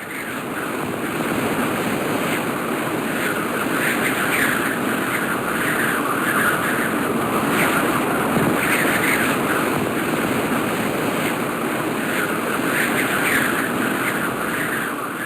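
Steady rushing of a fast mountain stream, with brighter surges of splashing coming and going every second or two.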